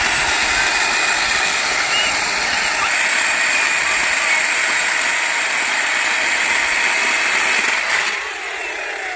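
Angle grinder converted into an electric chainsaw, running loud and steady as it cuts through a log of very hard wood. About eight seconds in the sound drops and tails off.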